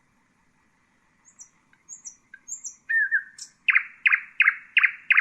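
Common nightingale singing: after a brief pause, a few thin high notes, then a loud run of about five rapid repeated notes, each sweeping downward.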